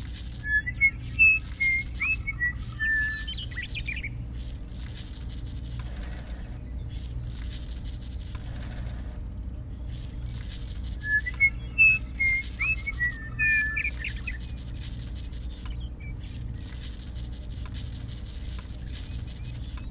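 A bird singing a short phrase of quick chirping whistles, twice, about ten seconds apart, over a steady low hum.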